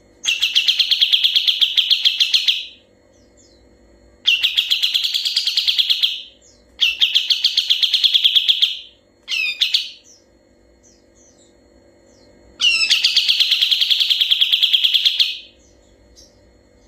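Kapas tembak bulbul singing four long, rapidly pulsed rolling trills of about two to three seconds each, with one short call between the third and fourth.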